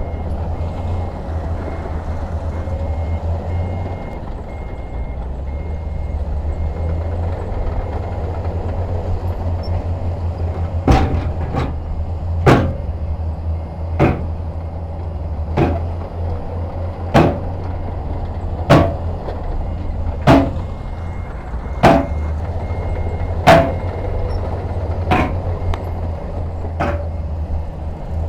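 Heavy diesel construction machine running steadily with a low drone, with faint reversing beeps in the first few seconds. From about eleven seconds in, a regular series of sharp metallic clanks comes roughly every one and a half seconds.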